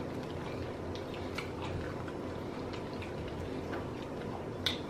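Quiet chewing of rotisserie chicken: scattered soft, wet mouth clicks and small ticks as meat is pulled apart by hand, with a slightly louder click near the end.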